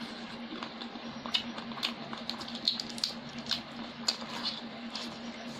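Close-up eating sounds: chewing and lip-smacking on rice and chicken, a run of irregular wet mouth clicks, over a steady low hum.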